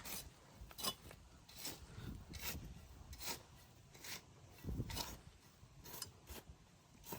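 Repeated short scraping strokes, a little more than one a second, at a low level.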